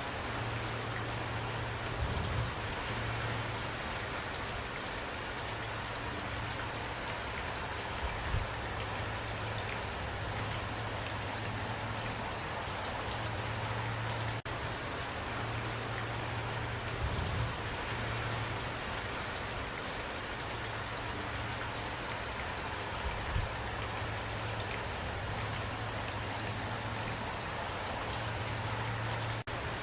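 Steady rain falling and pattering on surfaces, with a dense, even hiss of drops. There is a low rumble that comes and goes, and a few soft low thumps.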